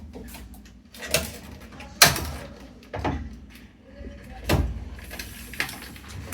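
Hands working inside a washing machine's cabinet during disassembly: a string of about five sharp knocks and clatters roughly a second apart, the loudest about two seconds in, with a light scraping rustle near the end.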